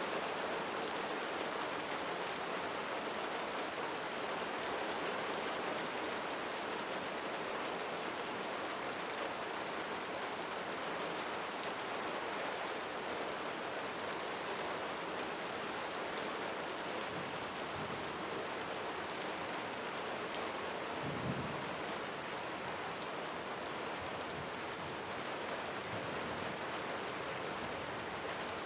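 Steady rain falling on leaves, a continuous even hiss with scattered close drops ticking, and a brief low rumble about three quarters of the way through.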